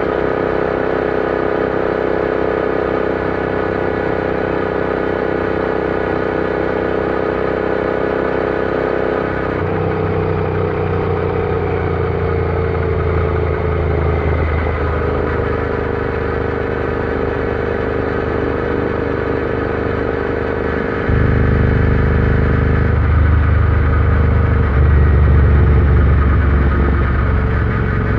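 Royal Enfield Interceptor 650's parallel-twin engine running steadily under way. Its note shifts about ten seconds in, and about two-thirds of the way through it turns louder and deeper.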